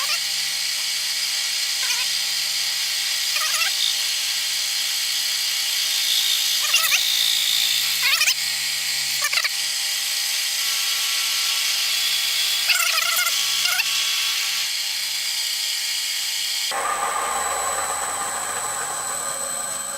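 Bridgeport milling machine running, its cutter taking a light side cut on a steel block, with short squeals from the cut every second or two. The steady running sound changes abruptly about three seconds before the end.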